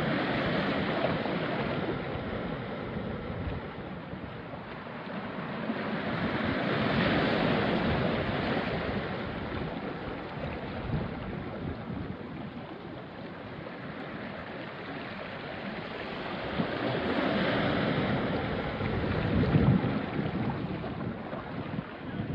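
Small waves washing onto a rocky shore, swelling and fading in slow surges several seconds apart, with wind on the microphone.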